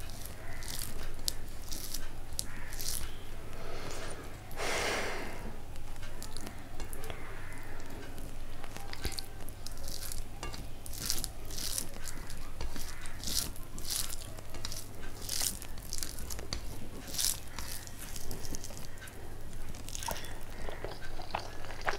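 A person eating rice and curry close to the microphone: chewing with many short wet mouth clicks and smacks, and a brief louder rustling noise about five seconds in. A low steady hum runs underneath.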